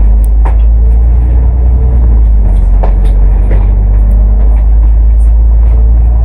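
A Cummins ISL8.9 diesel engine of an Alexander Dennis Enviro500 MMC double-decker bus running steadily under way, heard from inside as a loud deep rumble. A few short rattles and clicks from the body come and go.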